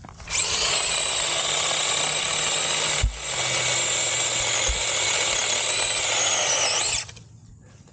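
SeeSii cordless battery chainsaw running its chain through wood for about seven seconds, the electric motor whining high as it spins up at the start and winding down near the end. About three seconds in there is a brief dip with a knock.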